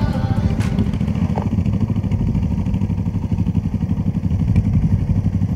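Honda Transalp V-twin motorcycle engine running steadily at cruising speed, heard from on board with a fast even pulse.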